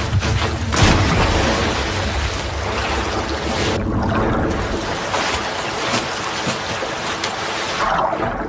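A steady, loud rushing noise like wind, with a brief surge about a second in.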